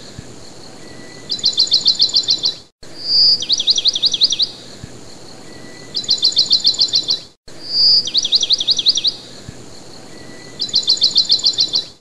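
Songbird singing in phrases of a short high whistle followed by a quick run of down-slurred notes, then a faster trill of about a dozen notes. The same song repeats about every four and a half seconds, with a brief dropout each time, like a short recording played on a loop.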